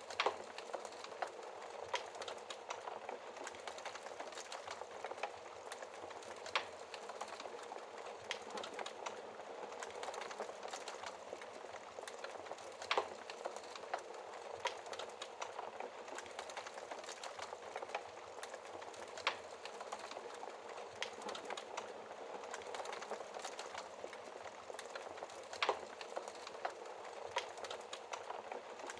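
Wood fire burning in a fireplace, a steady dense crackle with sharper pops every few seconds.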